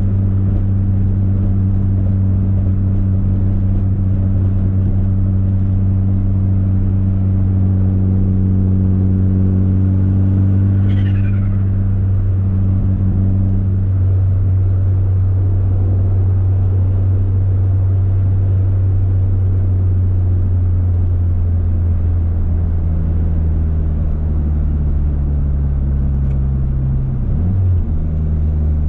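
Turbocharged 4G63 four-cylinder engine of a Mitsubishi Eclipse GSX running loud at steady revs. A brief falling whistle comes about eleven seconds in, and the engine note shifts slightly near the end.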